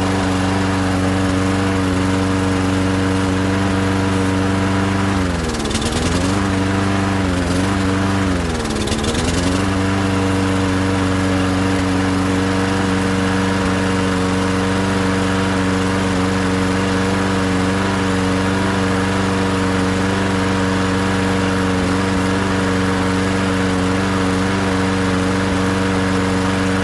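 Walk-behind lawnmower's small engine running at speed after a carburetor clean-up. About five seconds in its pitch sags and recovers three times, then it runs steady. It is still not running as it should, a sign of dirt left in the carburetor.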